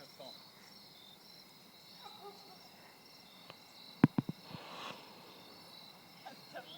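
Steady high chirring of insects, with a quick cluster of three or four sharp clicks about four seconds in, followed by a short hiss.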